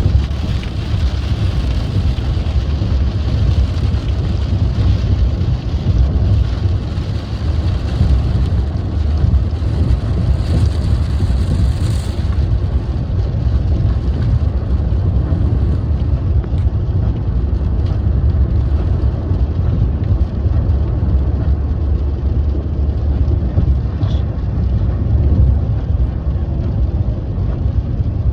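A car cabin's steady low road and engine rumble while driving on a rain-wet road, with a higher hiss of rain and tyre spray that drops away about twelve seconds in.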